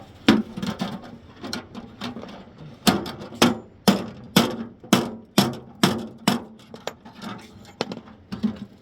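Hand-tool hammering: a run of sharp blows, about two a second, strongest through the middle of the stretch, with lighter, uneven knocks around them.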